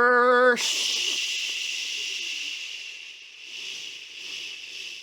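A held, slightly wavering sung or hummed note cuts off about half a second in. A long hiss follows and fades away over about four seconds.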